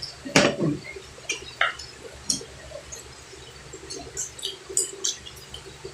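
Close-up eating sounds: short wet mouth clicks and smacks of chewing, with one sharp click about a third of a second in.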